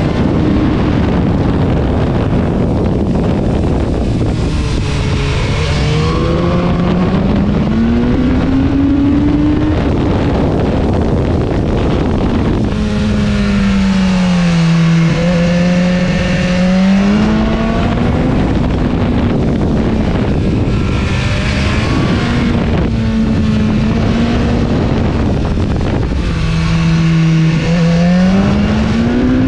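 BMW S1000-series inline-four motorcycle engine under way, its note climbing and falling several times as the throttle is opened and closed, over a heavy rush of wind on a helmet-mounted microphone.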